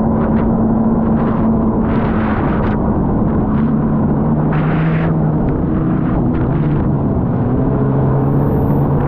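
Racing jet ski engine running hard, its pitch dropping about a third of the way through as the throttle eases, then wavering. Short bursts of water splash and spray recur over it.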